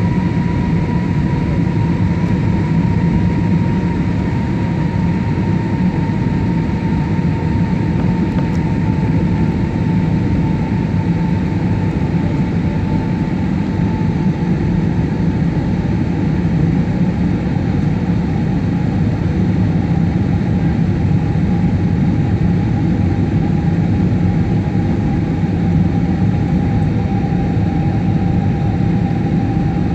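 Steady cabin noise inside an Airbus A320-family airliner: engine and airflow noise with a faint whine that slowly falls in pitch.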